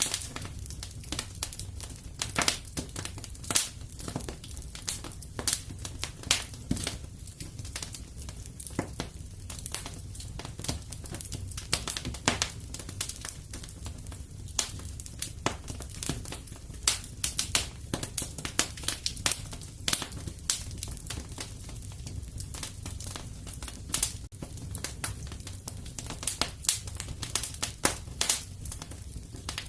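Wood fire burning in a fireplace: dense, irregular crackling and snapping with sharper pops scattered throughout, over a low steady rumble of the flames.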